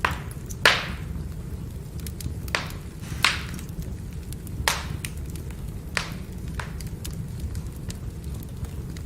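Wood fire burning with a steady low rumble and sharp crackling pops from the burning firewood, about seven in all, the loudest less than a second in.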